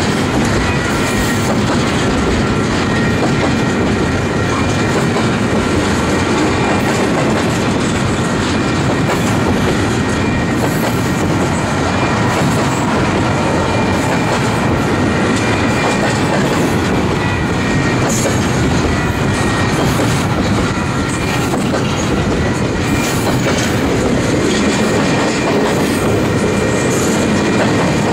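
Double-stack container train's well cars rolling past at speed: a steady rumble with rapid clicking and clatter of wheels over the rail joints. A faint, thin, high wheel squeal runs underneath.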